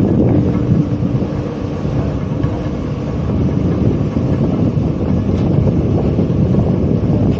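Heavy wind noise buffeting the microphone, a loud continuous low rumble, with a faint steady hum underneath that fades out about halfway through.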